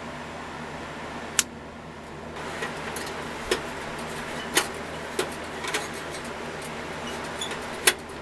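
About six sharp clicks and knocks of small hard parts being handled and set down, the loudest near the start and near the end, over a steady hum.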